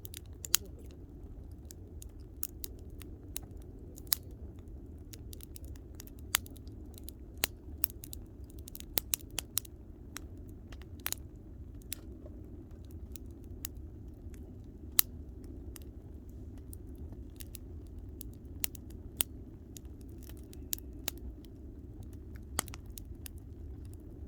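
Wood campfire crackling: irregular sharp pops and snaps, a few a second, over a steady low rumble.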